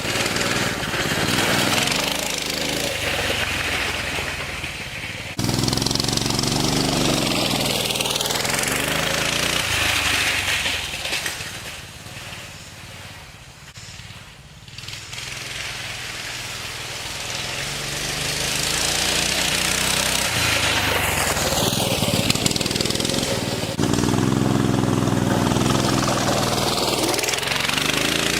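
Coleman CT200U pit bike's small single-cylinder four-stroke engine running as the bike is ridden. The revs rise and fall with the throttle, dropping low for a few seconds midway before picking back up.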